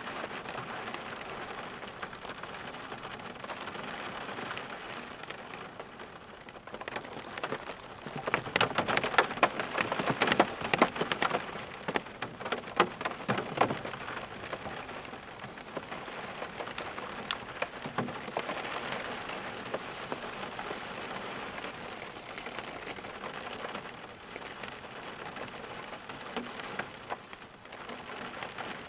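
Rain falling steadily on a surface, with a spell of louder, denser drop impacts from about eight seconds in that eases off by about fourteen seconds.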